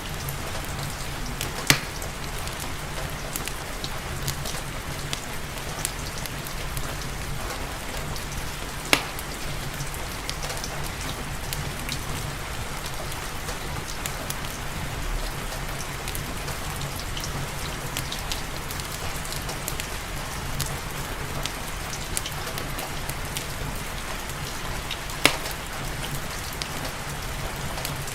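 Steady rain falling, with the sharp pops of a wood fire crackling. Three pops stand out clearly, about two seconds in, about nine seconds in, and near the end.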